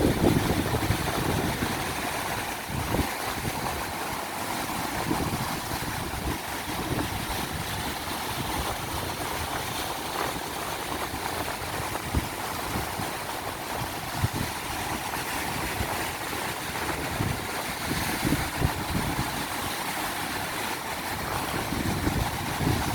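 Ocean surf rushing and breaking, with strong wind buffeting the microphone in low rumbling gusts. The wash swells louder near the start and again near the end.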